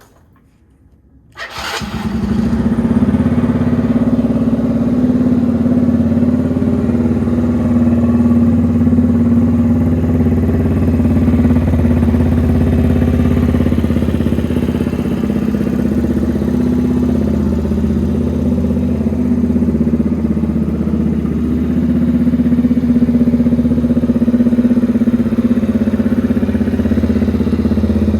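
Honda Magna 50 motorcycle engine starting about a second and a half in, catching at once and then idling steadily through an aftermarket muffler.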